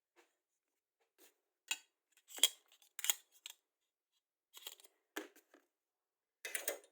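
Small metal tools clicking and clinking against a magnetic parts tray as they are handled, in a dozen or so separate sharp clicks with irregular gaps.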